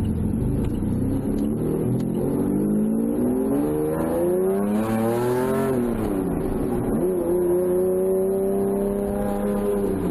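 Lamborghini Diablo V12 engine accelerating, its pitch climbing for about six seconds, then dropping at a gear change and holding steady.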